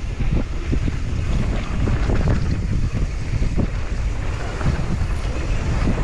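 Heavy, gusty wind buffeting the microphone: a loud, uneven rumble.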